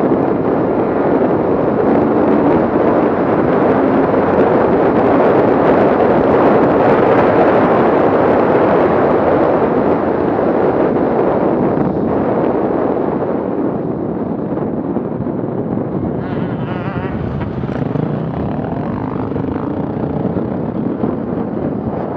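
Off-road vehicle engine running hard, getting louder to a peak about a third of the way in, then easing off.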